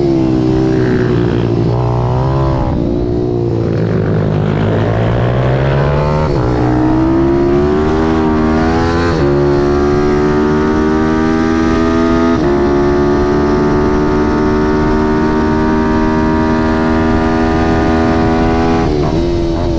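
Pit bike's Zongshen ZS190 single-cylinder four-stroke engine under racing load. The revs rise and fall through the first few seconds, then climb through three upshifts, with sharp pitch drops about 6, 9 and 12 seconds in. Held on a long, slowly rising pull, the engine note falls near the end as the throttle is shut.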